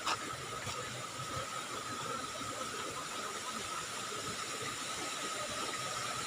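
Steady rush of flowing water from a stream, with a thin, steady high tone over it and a small click right at the start.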